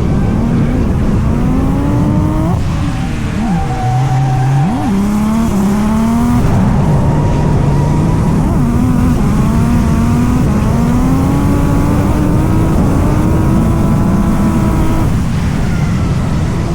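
Drift car's turbocharged 2JZ inline-six engine revving hard on track, its pitch climbing, dropping sharply and climbing again over and over, with steady tyre noise underneath. The lines fade out about a second before the end.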